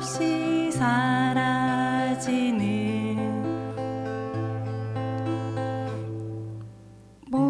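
Acoustic guitar strummed to accompany a sung melody. The voice holds a wavering phrase for about the first two and a half seconds, then the guitar chords ring on and fade. The singing and strumming come back in strongly near the end.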